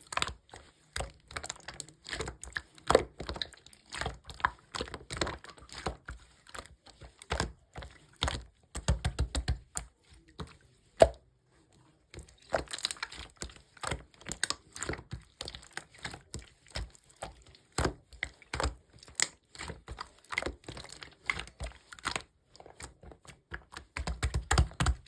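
Red clear slime being pressed and stretched by hand, giving a dense run of small crackling clicks and pops with a brief pause about halfway through.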